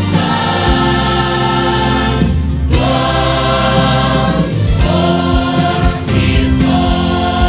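Church choir singing a Christmas song with instrumental accompaniment, in phrases with short breaths between them.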